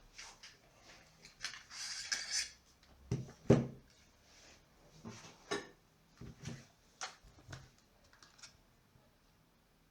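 Small objects being handled on a workbench: scattered clicks and light knocks, a short rustle about two seconds in, and one louder knock about three and a half seconds in.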